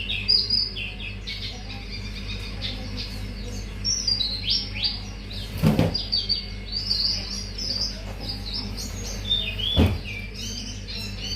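Hume's white-eye (pleci auriventer) singing a fast, continuous run of high, varied chirps and twitters: a full song in which it shows off its learned phrases. Two sharp knocks come about six and ten seconds in, over a steady low hum.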